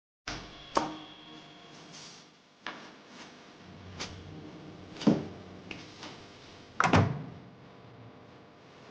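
A few separate knocks and thumps in a quiet room, about five in all, spaced a second or two apart; the ones about five and seven seconds in are the loudest.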